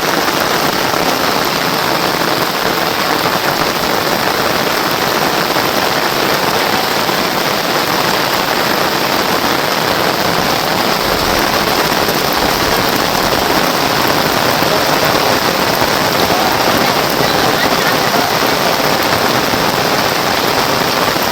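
Rain falling steadily and hard, a dense, even hiss that does not let up.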